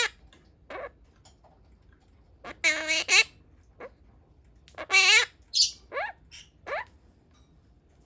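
Monk parakeet (pastel blue) giving harsh, squawky calls. There is a short call early, two longer calls of about half a second each in the middle, then a quick run of short chirps.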